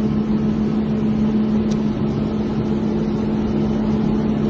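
Engine running steadily: a continuous drone with a constant low hum.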